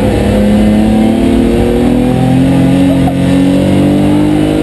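BMW 325 race car's straight-six engine heard from inside the cabin under way, its pitch easing down slightly and then climbing steadily from about two seconds in as it pulls harder.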